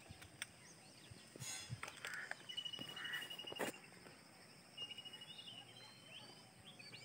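Birds calling: short chirps and a high, rapid trill held for about a second, heard twice, with a few faint clicks.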